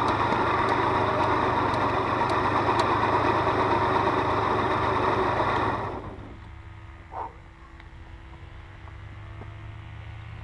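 Motorbike engine idling steadily, cutting off abruptly about six seconds in and leaving a faint steady hum.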